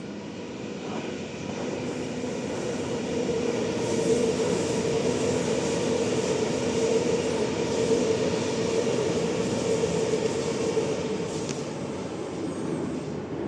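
Electric suburban train going by. The running noise builds over the first few seconds, holds with a steady hum through the middle, and eases slightly near the end.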